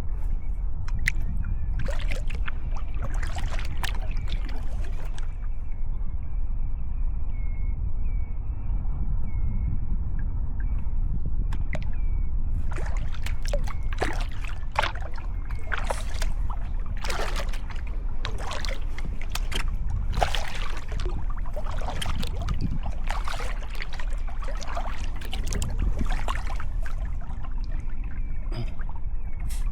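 Sea kayak paddle strokes: the blades dip and splash, with water dripping and trickling, every second or so over a steady low rumble. The strokes ease off for several seconds early on, then pick up again.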